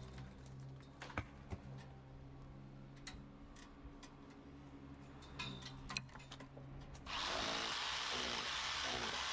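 Scattered clicks and knocks of loose stone and mortar being pulled out of a hole in a thick stone wall, then about seven seconds in a corded electric rotary hammer with a chisel bit starts abruptly and runs loudly, chipping into the stone.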